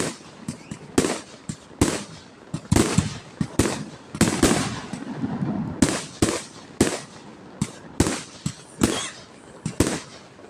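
Aerial fireworks display: sharp bangs go off one after another, roughly one or two a second, each trailing a short echo, with a busier stretch of overlapping bursts in the middle.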